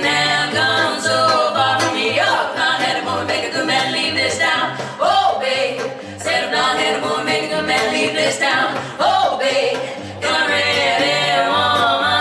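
Live music: women's voices singing together in harmony over bass and percussion, with a steady pattern of bass notes.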